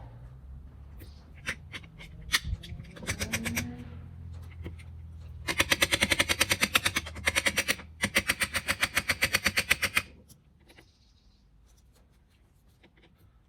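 Rapid, evenly spaced ratchet clicking in two runs of about two seconds each with a brief pause between, from the winding crank of a Victrola gramophone's spring motor being turned. A low steady hum runs underneath and stops with the clicking.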